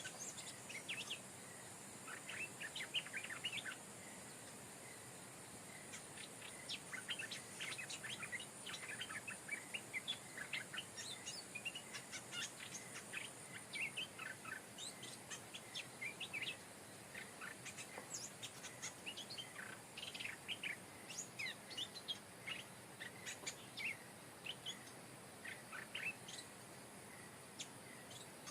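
Stripe-throated bulbuls singing: a run of short, quick chirping phrases repeated with brief pauses, over a steady high hiss.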